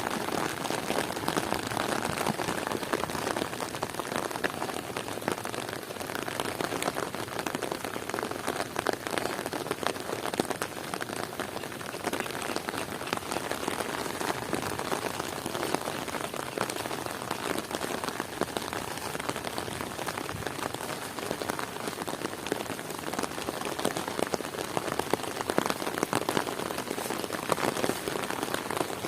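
Heavy rain falling steadily: a dense, even hiss of countless drops hitting the ground and surfaces.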